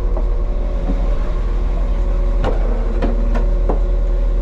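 Steady low hum of a stationary train idling with its doors open. A few short clicks and knocks come in the second half.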